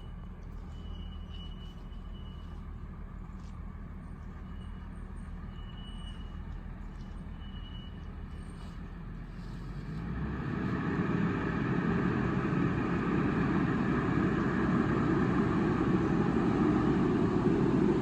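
Diesel engine of heavy equipment running steadily, growing clearly louder about ten seconds in.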